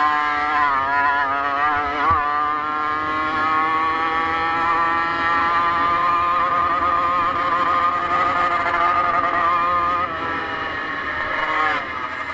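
Motocross bike engine running hard, heard from on board: its pitch wavers with the throttle over the first couple of seconds, then holds steady and slowly climbs, dropping about ten seconds in and again near the end.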